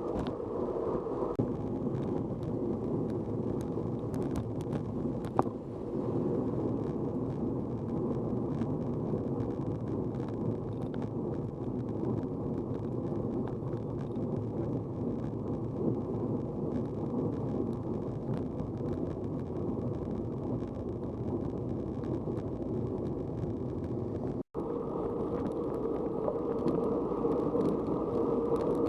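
Steady low rumble of travel noise, wind and road, with scattered light clicks and rattles and a brief dropout near the end.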